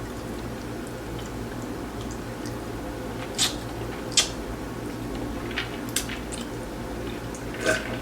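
Close-up chewing of food, with a few short, wet mouth clicks and smacks spaced a second or so apart over a steady low hum.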